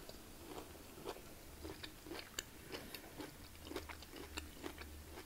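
Close-miked chewing of a mouthful of roast dinner: soft, irregular wet clicks a few times a second, over a low steady hum.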